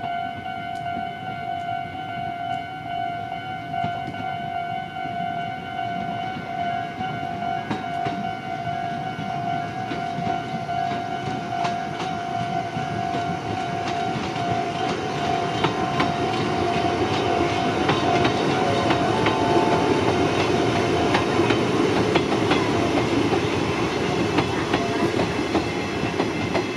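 Level-crossing warning alarm ringing steadily as an electric train approaches and passes over the crossing, its wheels clattering over the rail joints, loudest about twenty seconds in. The alarm stops near the end as the train goes by.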